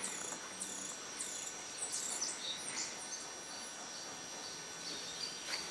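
Tropical forest animal sounds: a steady high insect drone with a run of short, high chirps repeating about twice a second through the first half, and a few fainter calls near the end.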